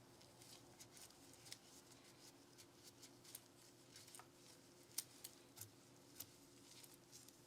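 Faint, scattered small clicks and taps of hands working on the parts of a Glock pistol with small tools, the sharpest click about five seconds in, over a faint steady hum.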